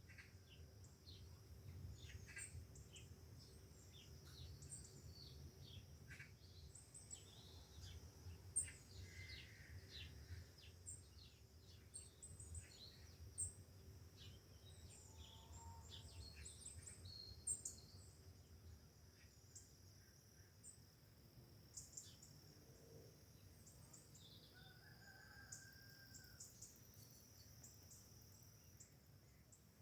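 Faint outdoor birdsong: short high chirps and calls scattered throughout, over a steady high insect drone and a low background rumble.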